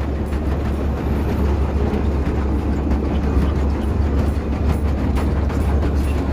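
Vintage train running along the track: a steady low rumble with rail noise.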